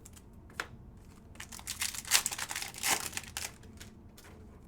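Plastic packaging crinkling and rustling as trading cards are handled, loudest about two seconds in and again about a second later, with a short click near the start and another near the end.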